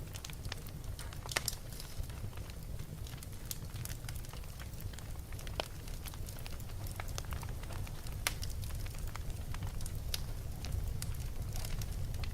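Fire burning in a fireplace, crackling with irregular sharp pops and snaps over a low steady rumble.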